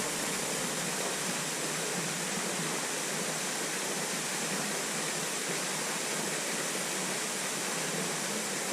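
Steady, unbroken rush of a waterfall pouring into its pool.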